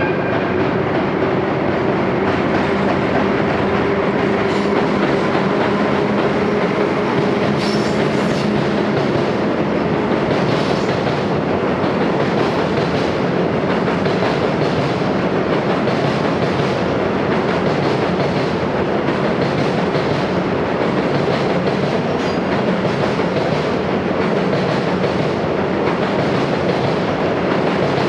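Freight train of wagons rolling past, wheels clattering steadily over the rail joints. A low hum under the rumble fades out about nine seconds in.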